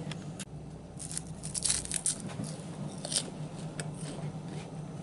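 Close-up crunching and chewing of a lightly salted rice cake spread with peanut butter, with a run of crisp crunches about one to two seconds in and another near three seconds.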